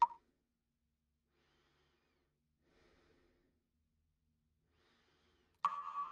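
A person breathing faintly in near silence, after a brief sharp click at the very start. Near the end a sudden loud ringing tone cuts in and slowly dies away.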